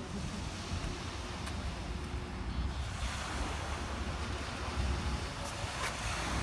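Sea surf washing onto the shore, with wind buffeting the microphone.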